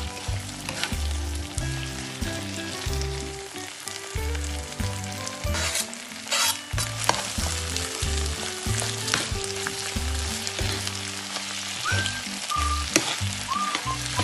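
Sambal of chopped chillies, tomatoes and petai beans sizzling in a frying pan while a spatula stirs and scrapes it, with a music bed and its repeating bass beneath.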